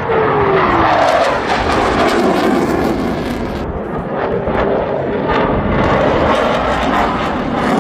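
Aircraft at an air display passing loud and close, a dense engine noise with its pitch sliding down as it goes by, then a loud steady rush as it flies away.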